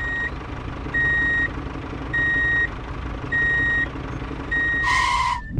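Vehicle reversing alarm: a single high beep, about half a second long, repeating roughly once a second over a low steady engine rumble. A brief hissing burst comes near the end.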